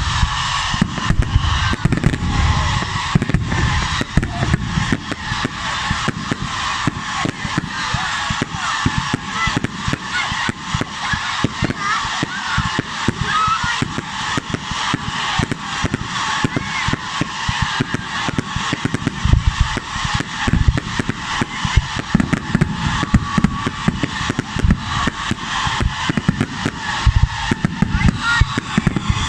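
Bonfire night street procession: a band playing with drums over a crowd, with many sharp cracks of bangers and firecrackers going off throughout.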